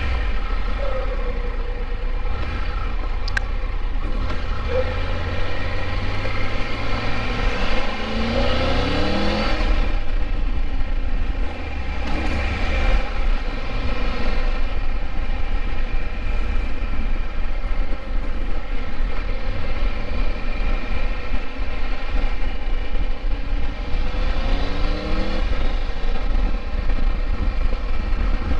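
Triumph Tiger 1200 three-cylinder motorcycle engine running while riding, over a steady low rumble. The engine note rises twice as it accelerates, about eight seconds in and again near the end.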